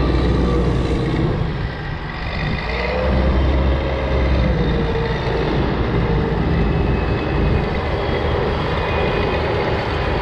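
Heavy diesel engines of tractors and snowcats working a corn silage pile, running steadily at a loud level, with an engine note rising and then falling about three to five seconds in.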